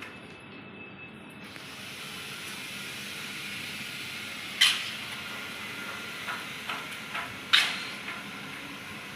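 Building-site work sounds: a steady hiss with several sharp knocks, the two loudest about four and a half and seven and a half seconds in.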